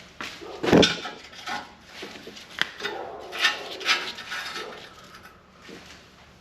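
Irregular metal knocks, clanks and scrapes of work on a rusted, seized torque arm bolt, with one heavy blow about a second in and a sharp click a little later.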